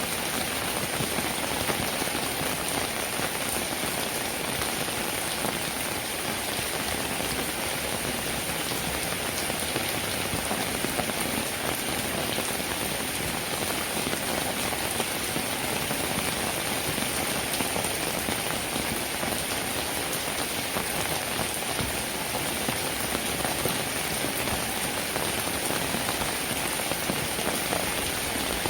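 Steady rainfall, a dense, even patter of many drops that holds without let-up.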